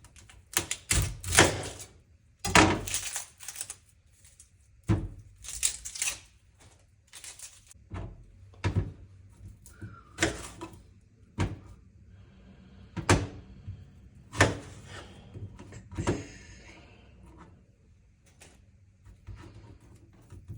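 Kitchen knife cutting an onion, the blade knocking irregularly on a cutting board with sharp chops, some in quick runs.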